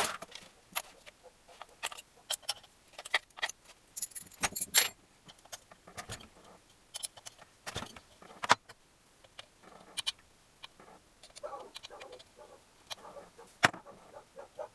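Irregular sharp metallic clicks and clinks, many in a row: hand tools and small metal engine parts being handled and set down during engine assembly.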